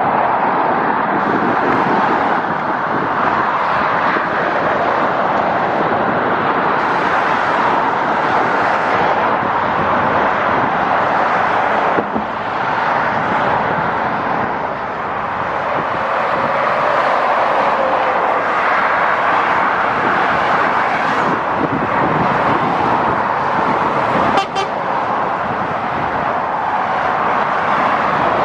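Steady road traffic noise from the motorway, an even, unbroken rush of tyres and engines.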